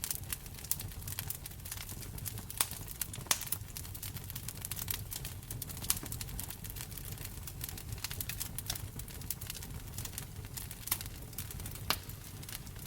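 Wood fire crackling in a fireplace: a dense run of small snaps with a few louder pops, over a steady low rumble of the burning.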